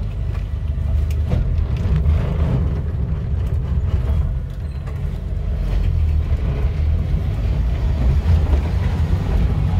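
Maruti Gypsy's LPG-fuelled engine running, a steady low rumble heard from inside the cabin.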